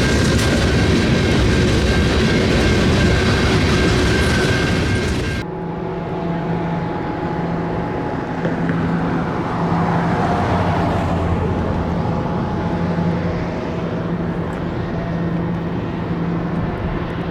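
Freight train rolling past close by, wheels clattering on the rails with a steady high squeal. About five seconds in it cuts suddenly to a quieter, steady diesel locomotive engine drone.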